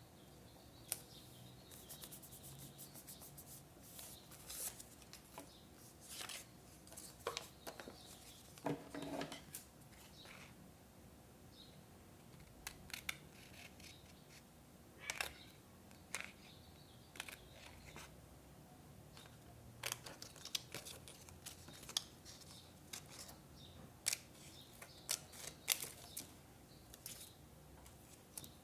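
Scissors snipping paper, with irregular small clicks and short rustles of paper being handled. A quick run of rapid clicks comes a few seconds in, and a longer rustle comes near the middle.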